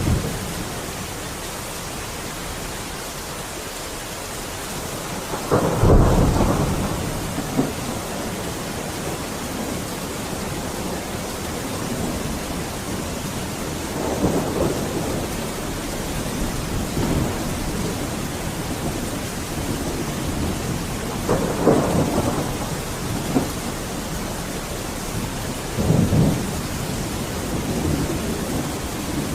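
Heavy rain falling steadily, with thunder rumbling about four times over it, loudest about six seconds in.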